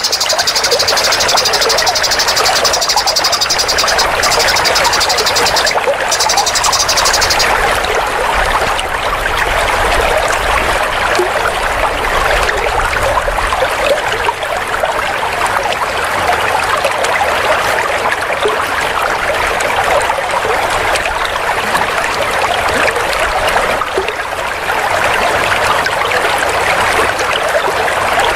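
Dense, continuous songbird chattering, played as a training recording for competition songbirds. A high, thin trill sits above it for the first seven seconds or so.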